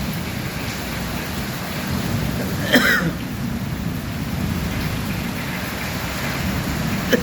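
Steady rain falling, with a brief sharp sound about three seconds in and another near the end.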